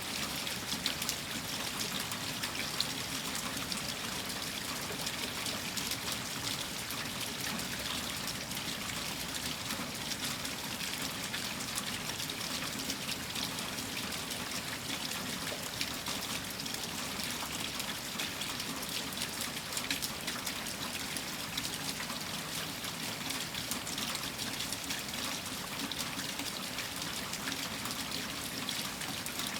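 Steady rain, an even hiss peppered with fine drop ticks, with water running and trickling.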